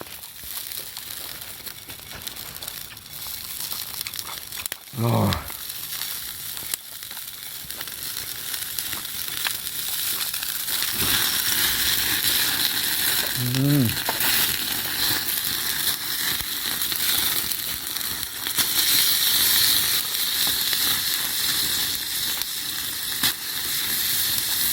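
Meat sizzling over a campfire, a steady hiss that grows louder from about ten seconds in.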